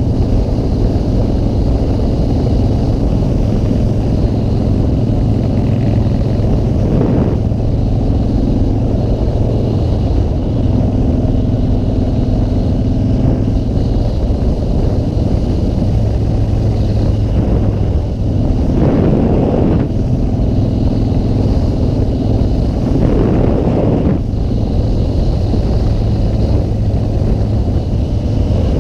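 Motorcycle engine running at a steady cruise with wind rushing past. A few short, louder whooshes come through.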